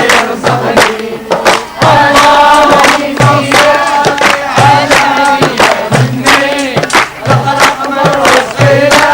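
A group of voices singing a campfire song together, with quick hand clapping and a low thud beating about every second and a half.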